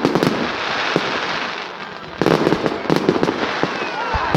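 Fireworks display: shells bursting in dense crackling and popping, with clusters of sharp bangs at the start and again about halfway through. Near the end come whistling glides and one deep boom.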